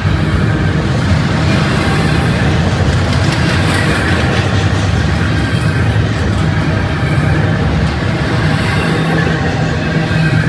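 Double-stack container train's well cars rolling past: a steady, even rumble of steel wheels on the rails.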